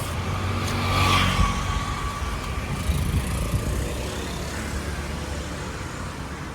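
Motor vehicles running in traffic: a steady low engine rumble, with one vehicle passing louder, with a brief whine, about a second in.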